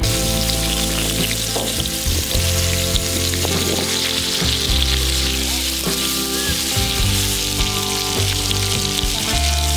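Potato cubes sizzling steadily in hot oil in an aluminium wok, a continuous frying hiss. Background music with held, changing notes plays underneath.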